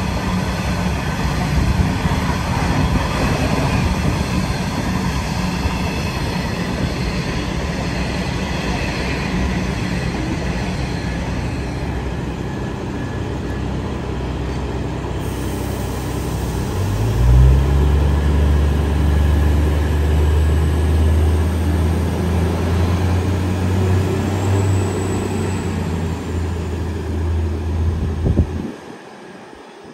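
Loaded coal hopper wagons roll past with steady rail noise. About halfway through, a diesel railcar's engine takes over with a deep, steady drone as it throttles up to pull away. The sound cuts off abruptly near the end.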